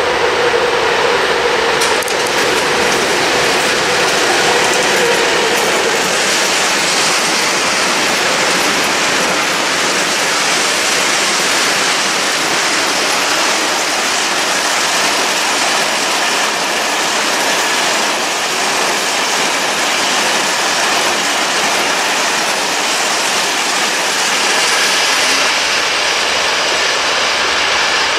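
A long freight train of hopper wagons rolling past close by: a steady loud rush and clatter of steel wheels on the rails. In the first few seconds the diesel locomotive's engine hum is also heard.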